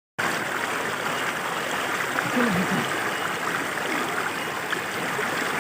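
Steady rush of fast-flowing water. A short human voice sound comes about two and a half seconds in.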